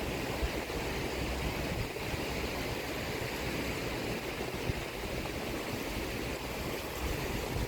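Steady wash of ocean surf blended with rain, as an even, continuous hiss over a rough low rumble.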